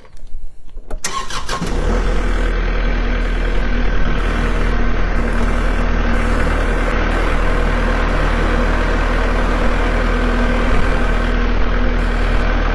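A farm tractor's engine cranks with a few clicks and catches about a second in, then runs steadily.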